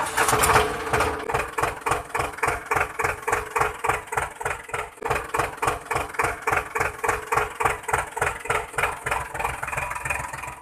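Tractor engine idling with an even chugging of about five beats a second.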